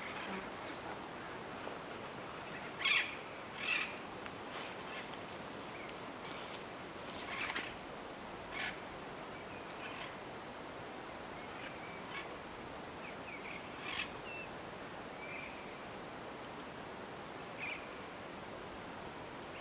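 Short bird calls at irregular intervals over a steady outdoor hiss, the loudest a pair of sharp squawks about three and four seconds in.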